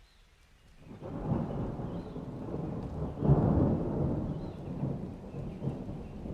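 A rolling thunder rumble: it builds about a second in, cracks loudest a little after three seconds, then slowly fades, with rain hiss underneath.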